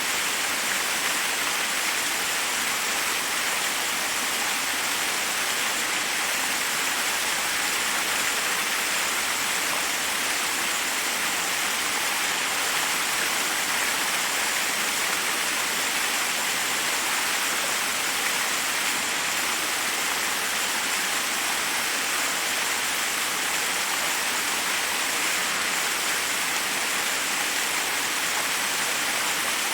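Forest waterfall: a steady, unbroken rush of water cascading over rocks, a hiss weighted toward the higher end with little low rumble.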